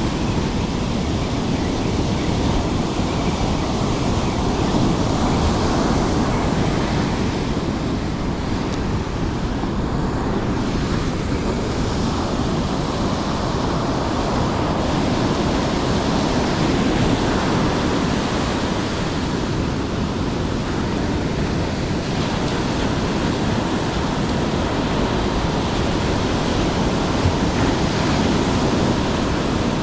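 Steady, unbroken noise of heavy rain, wind and breaking surf, with wind rumbling on the microphone.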